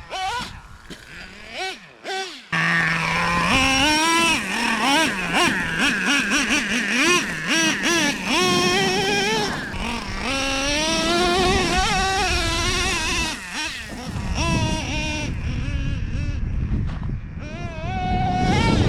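Traxxas Revo 3.3's O.S. .21 TM two-stroke nitro engine, fainter for the first couple of seconds, then loud from about two and a half seconds in, revving up and down again and again as the throttle is worked.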